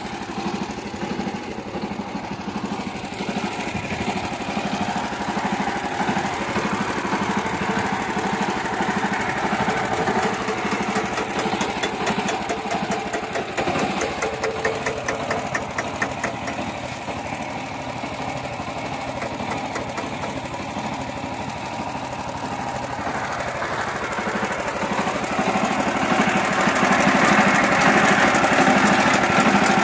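Mini tractor's engine running steadily while plowing, growing louder in the last several seconds.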